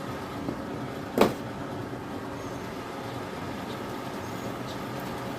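A single short thump about a second in, over a steady background hum.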